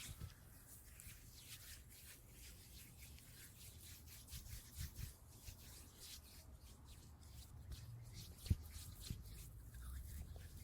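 Quiet, irregular scratching and rubbing strokes against a surface, with a single light tap about eight and a half seconds in.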